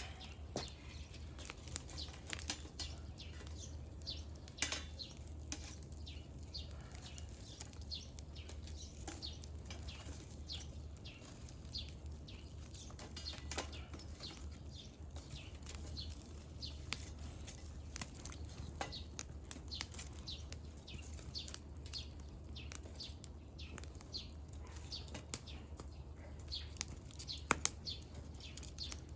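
Firewood burning, with frequent irregular crackles and pops over a steady low hum.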